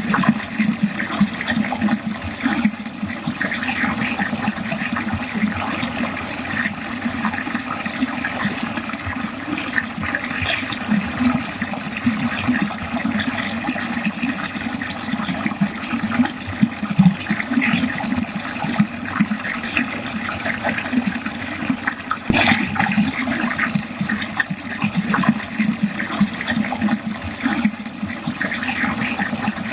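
Water pouring and gurgling down a drain, a continuous churning flow with small splashes and one sharper splash about two-thirds of the way through.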